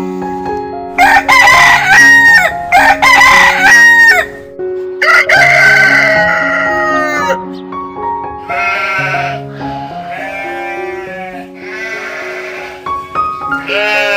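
Rooster crowing three times in a row, each crow lasting a second or two, followed by several softer, shorter animal calls. Background music plays throughout.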